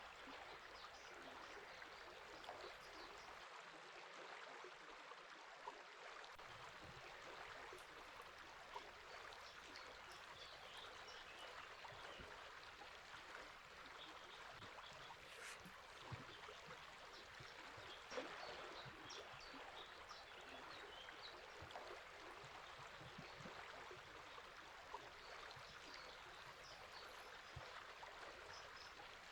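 Quiet, steady rush of a flowing river, with short bird chirps scattered over it.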